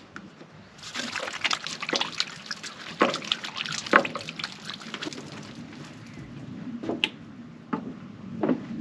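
Water being splashed and handled, with a dense run of small splashes and clicks for about three seconds, then a few scattered knocks.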